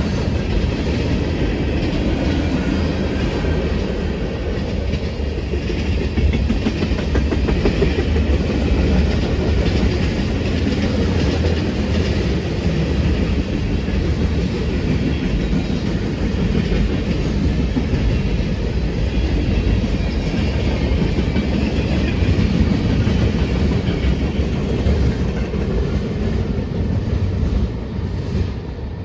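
A train rolling past at close range, its steel wheels clattering steadily over the rails, with the sound dropping off near the end.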